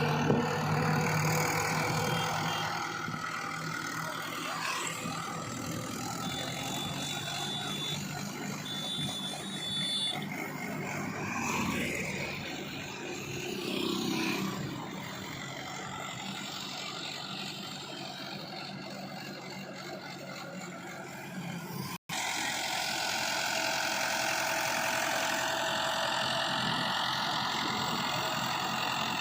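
Tractor engine running steadily under load, with a brief break about three quarters of the way through.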